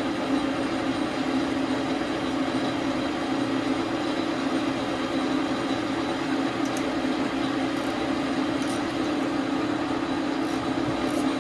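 Dar Sin 12 x 37 manual lathe running steadily, an even motor-and-gear hum with no change in speed. A few faint light ticks come in the second half.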